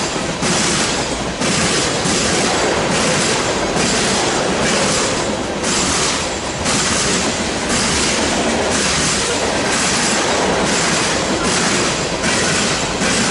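Freight cars of a BNSF manifest train rolling past at speed: steady wheel-on-rail noise with a hiss that swells and fades about once a second as the cars go by.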